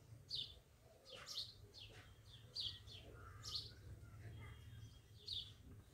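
Faint bird chirps, short and high, repeating about once a second over a low steady background hum.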